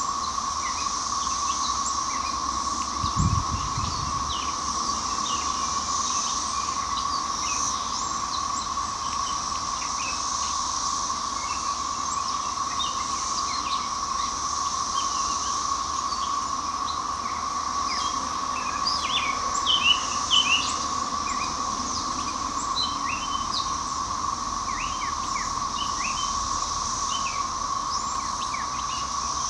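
Steady, loud drone of a chorus of Brood XIX 13-year periodical cicadas, with many short bird chirps and calls over it. A low thump about three seconds in.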